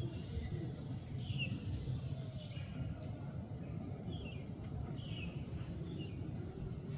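Several short, high, falling chirps from small birds a second or so apart, over a steady low outdoor rumble.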